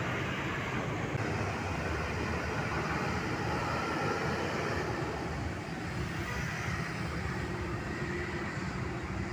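Road traffic with the engines of heavy vehicles, trucks and buses, running as they pass: a steady low rumble.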